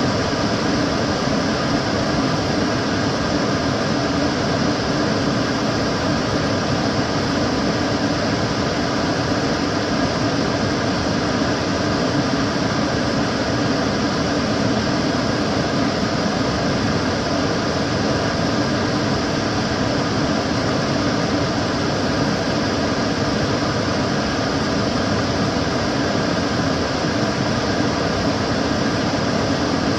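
Kitchen cooker hood extractor fan running steadily: an even rush of moving air with faint steady tones mixed in, unchanging throughout.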